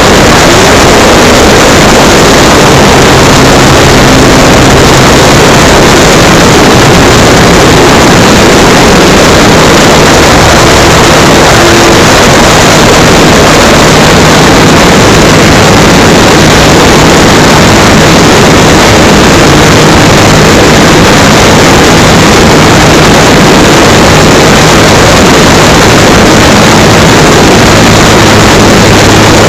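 Electric RC model Cessna 182 in flight, heard from a camera on board: a loud, steady, distorted rush of wind and propeller noise, with a low hum from the electric motor and propeller that shifts pitch slightly now and then.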